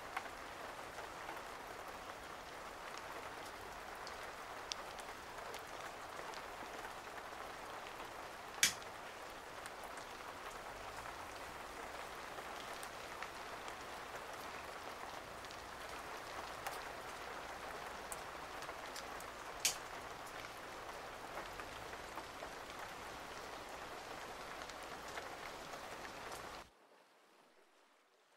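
Steady rain pattering with a few sharper, louder drips, which cuts off abruptly near the end.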